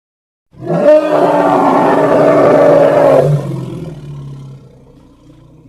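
An elephant calling. A loud, harsh call starts about half a second in and lasts about three seconds, then drops into a lower rumble that fades away.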